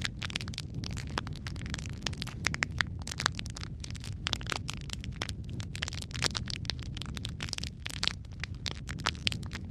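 Wood fire crackling: dense, irregular sharp pops and snaps over a steady low rumble of flame.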